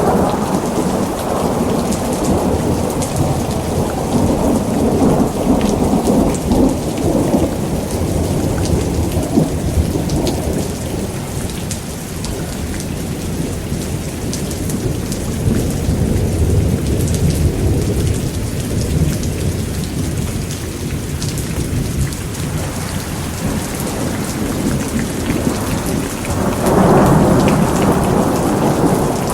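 Thunderstorm: steady heavy rain with rolling thunder that swells and ebbs, the rumble building again near the end.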